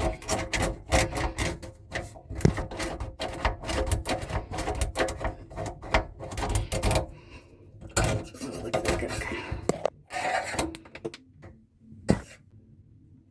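Drain snake being worked down a clogged sink drain pipe: a fast run of scraping and rattling for about seven seconds, then two shorter bursts and a single sharp click near the end.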